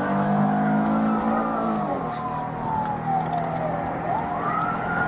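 Police car siren wailing in a slow fall and rise over the pursuing cruiser's engine running hard, the engine's pitch dropping about two seconds in.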